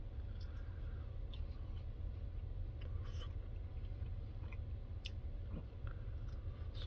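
Quiet chewing of a bite of hot stuffed chicken, with a few faint wet mouth clicks, over a steady low hum.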